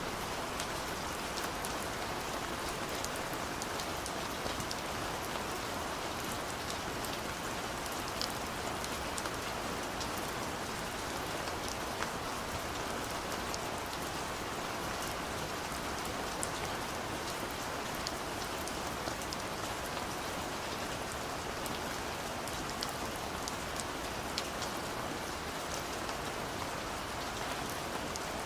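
Steady rain falling on a surface: an even, dense hiss with scattered individual drop ticks.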